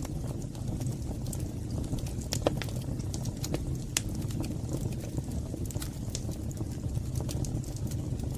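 Wood fire burning in a fireplace: a steady low roar of the flames with scattered sharp crackles and pops from the burning logs.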